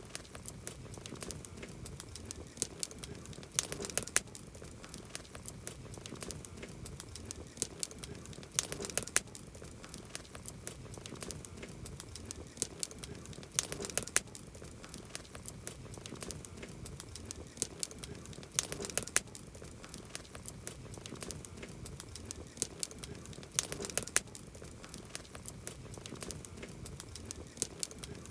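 Campfire wood crackling and popping, a steady run of small snaps with louder clusters of sharp pops about every five seconds.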